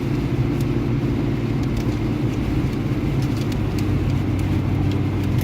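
Car cabin noise while driving: a steady low engine and road drone.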